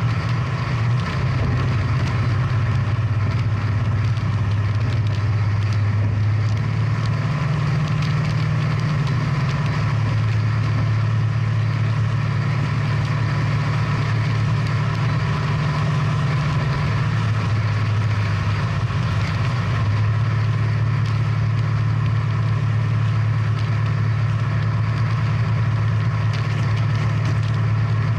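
Big-block V8 muscle car engine idling steadily: a low drone that steps slightly up or down in pitch a few times.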